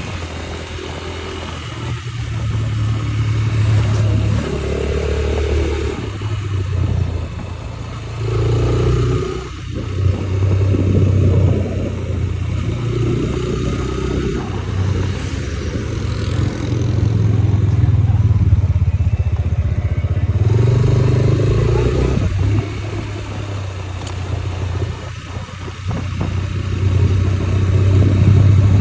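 Motorcycle engine running while riding, its note rising and falling with the throttle, over a steady rushing haze of wind and road noise.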